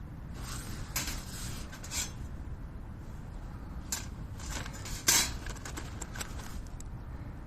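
Scattered light metallic clinks and knocks, with the loudest knock about five seconds in, over a steady low rumble.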